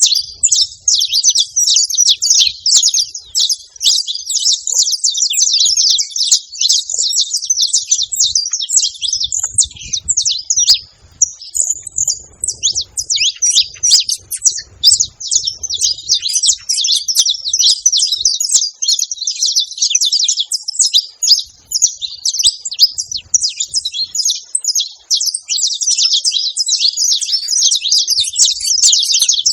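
Saffron finch singing: a long, near-continuous run of rapid high chirping notes, with a brief pause about eleven seconds in.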